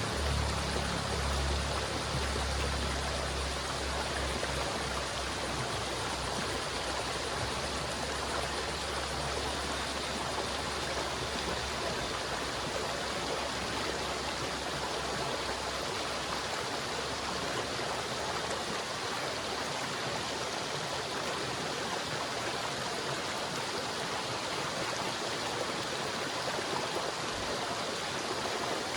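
River water flowing with a steady, even rushing. A low rumble underneath fades away over the first half.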